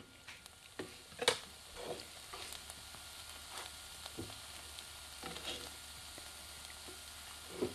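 Shiitake-stem pieces frying gently in a non-stick pan on low heat: a faint, steady sizzle. A wooden spatula scrapes and knocks against the pan now and then as the pieces are pushed around, the loudest knock about a second in.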